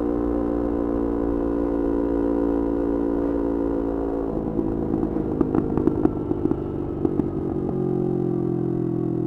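Yamaha R25's parallel-twin engine through a Kea Speed aftermarket exhaust, running at a steady engine speed. About four seconds in, the steady note breaks into about three seconds of crackling backfire pops from the exhaust. It then settles into a steady, lower note.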